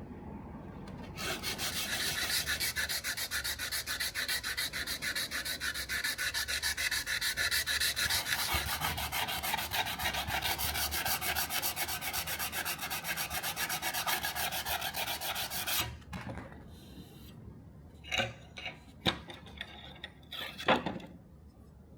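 Sanding by hand: rapid, continuous back-and-forth rubbing strokes that stop about three-quarters of the way in. A few short knocks follow, the loudest near the end.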